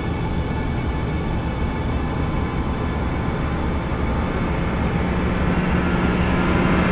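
Dense, steady droning wash of noise with many faint held tones, slowly getting louder; a strong low held tone comes in about five seconds in.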